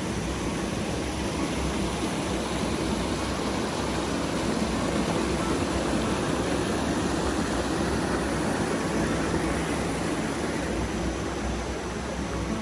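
Steady rushing roar of falling water from a jungle waterfall, an even noise without breaks.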